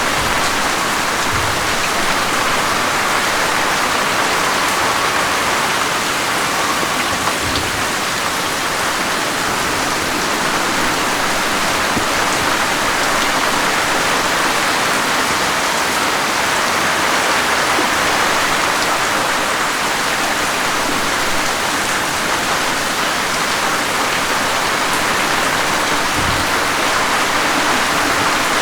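Steady, heavy rain falling, an even hiss of dense drops with a few faint low thuds.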